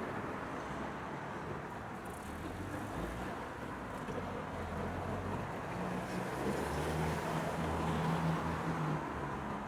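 Road traffic rumbling steadily, with a low vehicle engine hum that grows louder from about six seconds in and eases off near the end.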